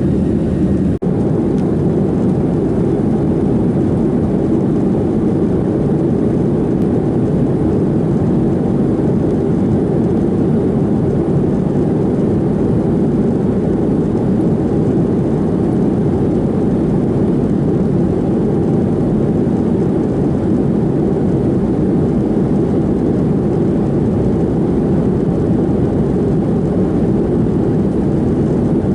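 Steady cabin roar inside a Boeing 737-700 in flight, from its CFM56-7B jet engines and the airflow over the fuselage, heard from a window seat. The level dips briefly about a second in.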